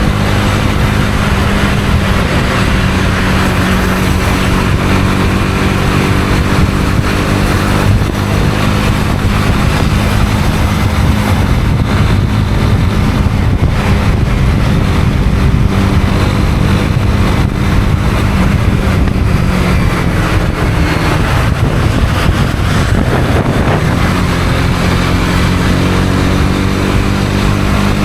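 Honda CB250R's single-cylinder four-stroke engine running at steady cruising revs under a steady rushing noise. About twenty seconds in the revs drop off, then pick up again a few seconds later.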